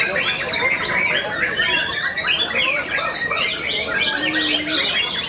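Dense chorus of many caged songbirds singing at once: overlapping chirps, trills and whistles with no pause.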